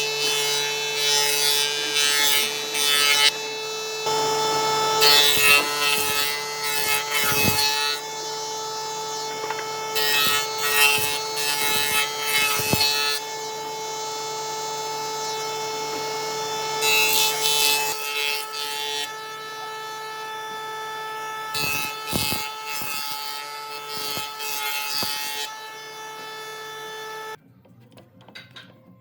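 A power tool's motor runs with a steady whine while it is worked against wood in repeated passes, each pass a loud rasping grind. The motor shuts off suddenly near the end.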